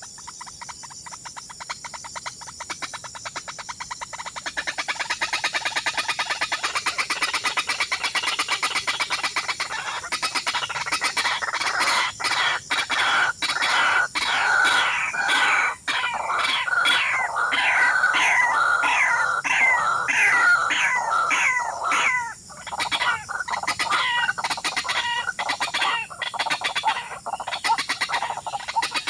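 Birds calling: a fast run of short, falling notes that grows louder and busier from about ten seconds in, over a steady high background.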